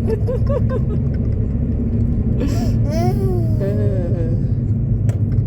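Steady low rumble of a moving car heard from inside the cabin. About halfway through, a child's high voice makes a long drawn-out sound that rises and falls.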